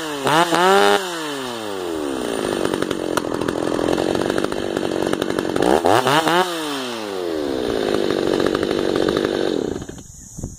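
Freshly rebuilt Stihl MS290 two-stroke chainsaw with a ported muffler, idling and revved twice: once just after the start and again about six seconds in, each time dropping back to idle. The sound falls away sharply just before the end.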